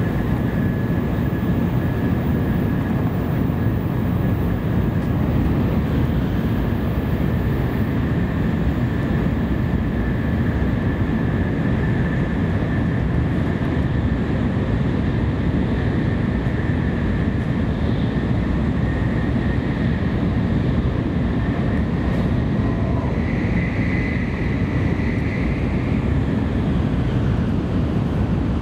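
Tokaido Shinkansen train running at speed, heard from inside the passenger cabin while it passes through a tunnel: a steady low rumble of wheels and rushing air, with a faint steady high whine above it.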